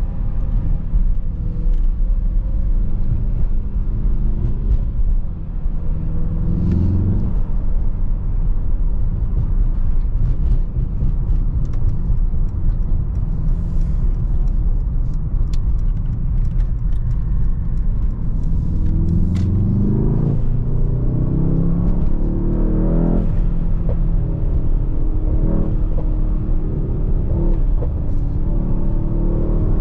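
Mercedes-AMG GT63 S twin-turbo V8 running under way with a steady low rumble. It revs up several times: briefly about seven seconds in, then more strongly around two-thirds of the way through and again near the end, its pitch rising with each pull.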